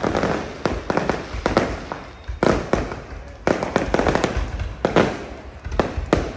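Fireworks display: a rapid run of crackling pops and bangs, with two louder bursts about two and a half and three and a half seconds in.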